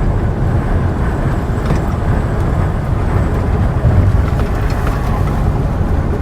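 Semi truck cruising at highway speed: a steady low drone of the engine and tyre and road noise, heard from inside the cab.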